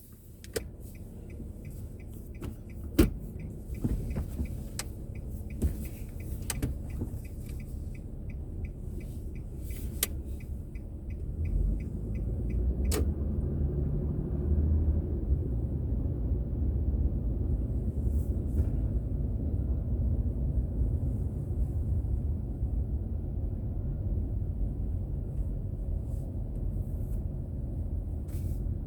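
Car driving, heard from inside: a low engine and road rumble that grows louder and steadier after about eleven seconds as the car gets under way. In the first ten seconds there is a faint, regular ticking, about two to three ticks a second, and a few sharp knocks, the loudest about three seconds in.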